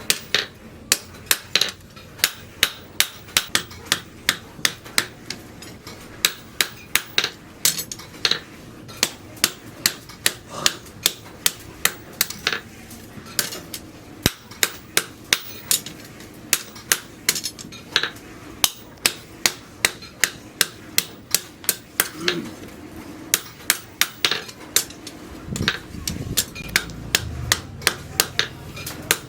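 Blacksmith's hammer striking steel on an anvil in a steady rhythm of about two to three sharp ringing blows a second, as rebar is forged into a sickle blade.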